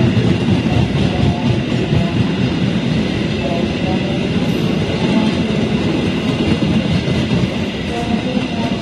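Argo Dwipangga passenger train rolling slowly past along the platform, a steady dense rumble of wheels and coaches. Guitar music plays over it.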